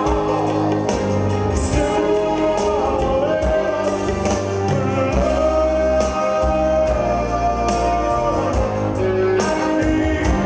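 Live rock band playing a song with a male lead vocal over guitar, bass and drums, with steady drum hits.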